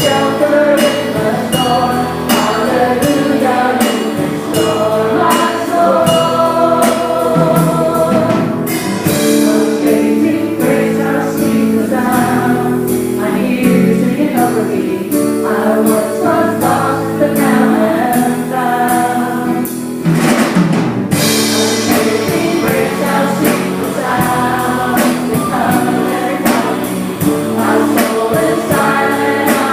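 Gospel choir singing a worship song with a band, drums keeping a steady beat.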